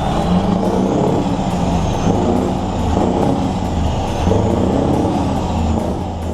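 Large diesel truck engine running through its exhaust, steady with slight swells in level.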